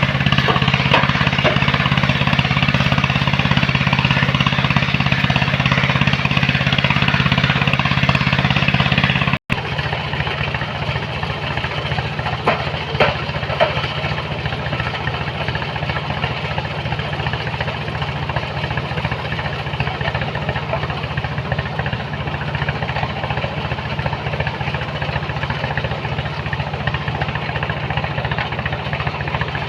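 Engine of heavy machinery running steadily. It cuts off abruptly about a third of the way through, and a slightly quieter engine hum carries on, with a few short knocks soon after.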